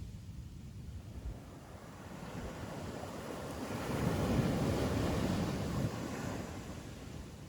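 Ocean waves breaking on a beach: a wave builds, crashes about halfway through, then washes back and fades.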